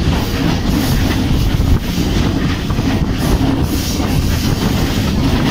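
Chennai MRTS electric suburban train running at speed on its elevated line, heard from aboard: a steady, loud rumble of wheels on rail and running noise.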